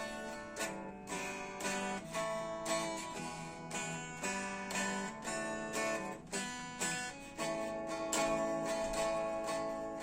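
Acoustic guitar strumming and picking chords in the instrumental passage of a song.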